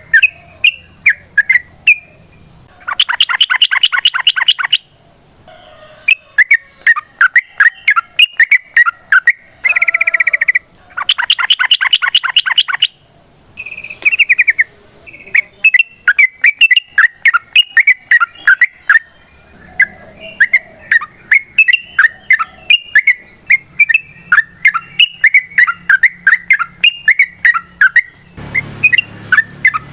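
Yellow-vented bulbuls (trucukan) singing in a long run of quick, bubbling chirps, broken twice by a fast rattling trill.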